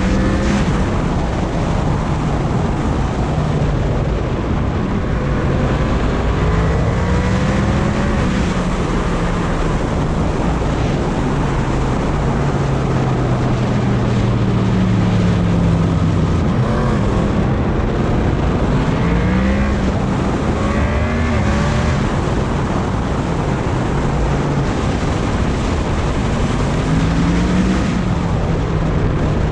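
Yamaha MT-10 motorcycle's inline-four engine under way, its pitch rising and falling several times through the throttle and gears, under heavy wind noise on the microphone.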